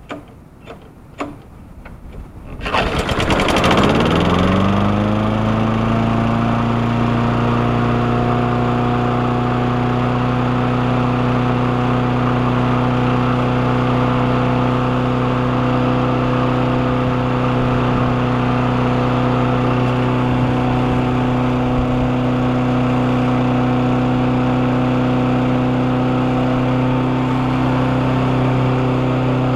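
A few light clicks, then the Briggs & Stratton Quantum single-cylinder engine of a Garden Pride 22-inch push mower is pull-started and catches at once. It rises to speed over a couple of seconds and then runs steadily, despite long neglect and year-old gas.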